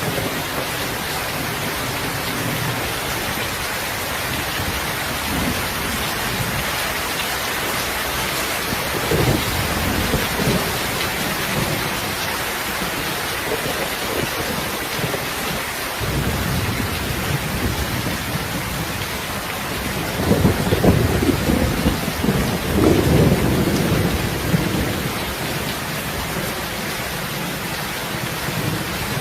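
Steady rain, with low rumbles swelling about nine seconds in and again, louder, from about twenty to twenty-four seconds.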